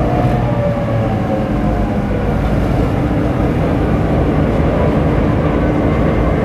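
GM-EMD two-stroke diesel locomotive engine running loudly and steadily, a deep rumble with a steady engine tone.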